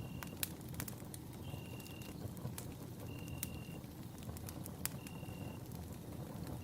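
Campfire burning, with frequent sharp crackles and pops over a low steady rumble. A short, steady high note repeats about every second and a half.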